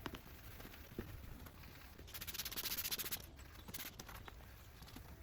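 Headlight lens being wet-sanded by hand with 3000-grit sandpaper: a burst of rapid scratchy rubbing about two seconds in, lasting about a second, with a shorter stroke just after.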